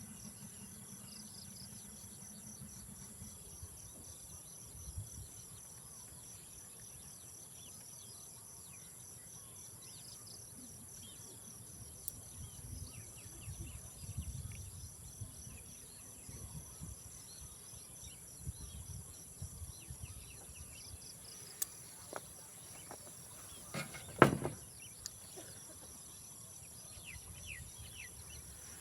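Outdoor insect chorus: a steady high-pitched trill layered over a faster pulsing trill that runs on without a break. A single sharp knock stands out about 24 seconds in, with a few softer low bumps scattered through.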